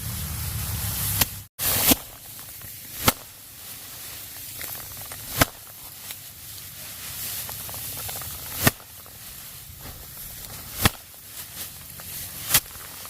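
Six sharp, short knocks, one to three seconds apart, over a faint background hiss.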